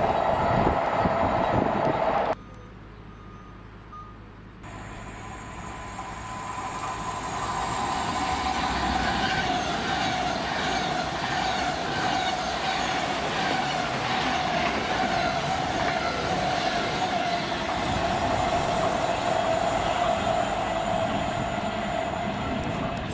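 Intermodal container wagons of a freight train rolling past with a steady wheel squeal on the curve. The sound cuts off abruptly about two seconds in. From about five seconds a Virgin Trains Class 390 Pendolino electric train comes through, growing louder over several seconds, its wheels again squealing steadily on the curved track.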